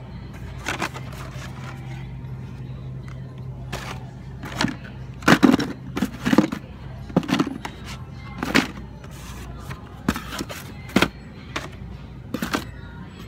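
Irregular sharp clacks and knocks, loudest in a cluster about five to seven seconds in, as blister-packed die-cast toy cars are handled and dug through, over background music.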